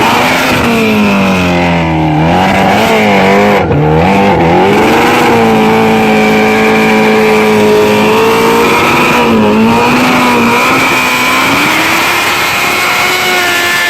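Kawasaki Ninja H2R's supercharged inline-four engine at high revs: its pitch dips and climbs several times in the first few seconds, then holds high and steady, dips briefly, and climbs again near the end.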